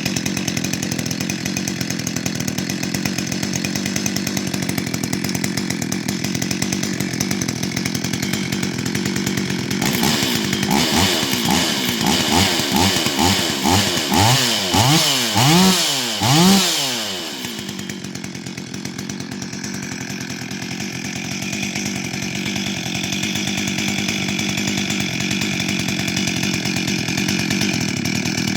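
Stihl MS 440 two-stroke chainsaw, its muffler modified with an added exhaust port, idling, then revved in about ten quick blips of the throttle from about ten seconds in, the last one the loudest, before dropping back to idle.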